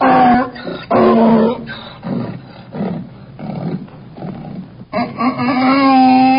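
Donkey braying: two loud, short calls at the start, a run of quieter, rougher in-breath notes through the middle, then one long, loud call near the end.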